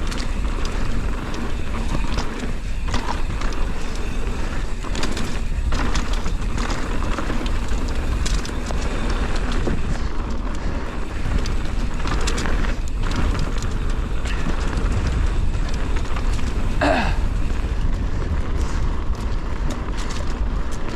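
Intense Primer S mountain bike riding fast down a dusty dirt trail: tyres rolling over loose dirt, with steady low rumble and scattered knocks and rattles of the bike over bumps. A short pitched sound comes about three-quarters of the way through.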